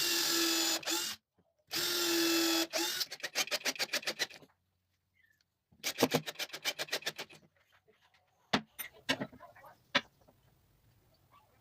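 Cordless drill driving screws: two short runs of the motor whining at a steady pitch, then two trains of rapid, even clicks, followed by a few separate knocks.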